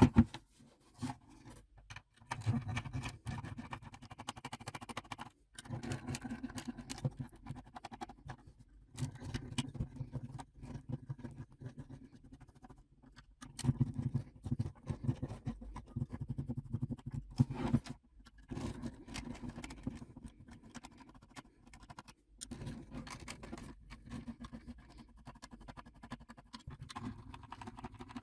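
Rapid scratching and scraping strokes, in stretches of a few seconds with short breaks between them.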